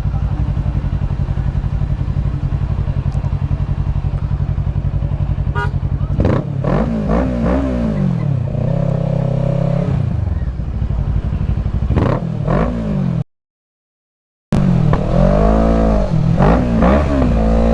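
Motorcycle engine idling with a steady pulse, then revved over and over, each rev rising and falling in pitch, with one held higher rev in the middle. The sound cuts out for about a second, then the revving goes on.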